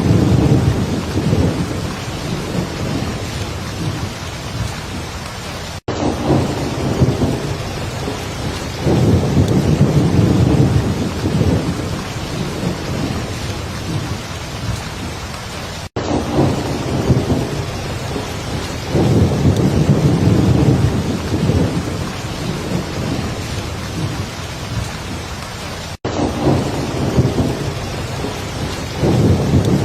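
Heavy rain falling steadily, with low rolls of thunder swelling and fading about every ten seconds. The sound cuts out for an instant three times, about ten seconds apart.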